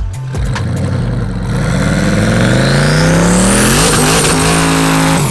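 Turbocharged 5.3-litre pickup engine revving hard. Its pitch climbs over about three seconds and holds at high revs, with a high whine rising alongside, before dropping off at the end.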